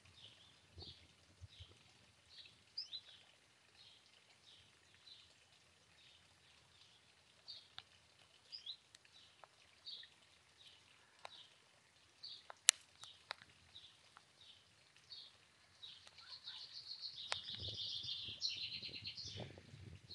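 Small songbirds calling: a short high chirp repeated about once a second, and near the end a louder, rapid trilling song lasting a few seconds. A single sharp click sounds a little past the middle.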